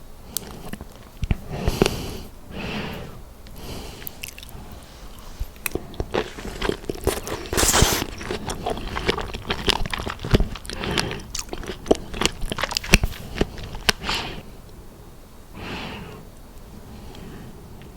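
Biting into and chewing fresh strawberries, with wet mouth clicks and smacking sounds throughout.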